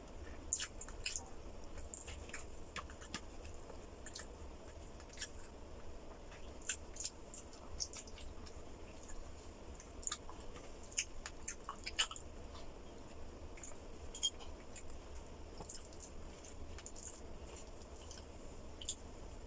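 A person chewing food close to the microphone, with a steady run of short, wet mouth clicks and smacks at an irregular pace.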